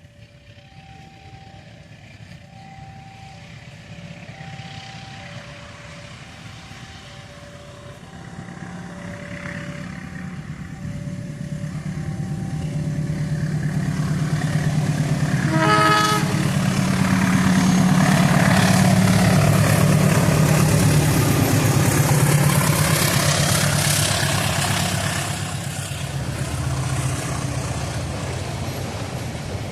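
Two-tone warning beeps alternate steadily at a railway level crossing for the first dozen seconds. About 16 s in a diesel locomotive gives a short horn blast, then its engine and the train's wheels pass loudly, easing a little near the end.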